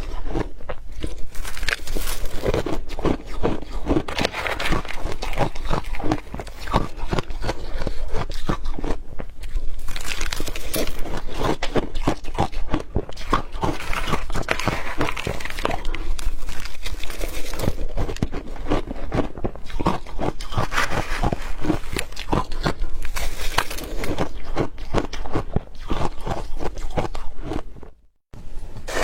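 Close-miked chewing of hard crushed ice: dense, rapid crunching and cracking bites, with a brief break near the end.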